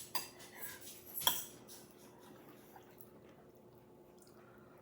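A utensil clinks against a dish twice, briefly, about a second apart, with a few faint ticks after.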